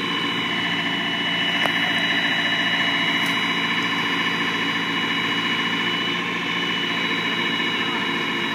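An engine running steadily with an even drone.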